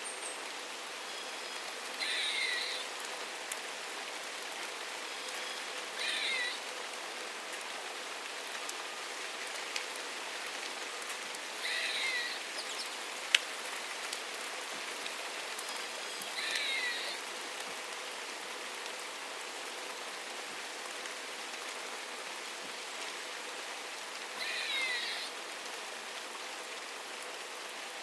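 Steady rain falling on surfaces, with a bird calling five times, several seconds apart. Each call is short and made of quick downward-sliding notes. A single sharp tick comes about halfway through.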